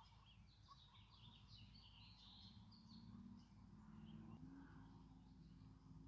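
Faint songbird twittering, a quick run of high chirps in the first half, over a low steady hum.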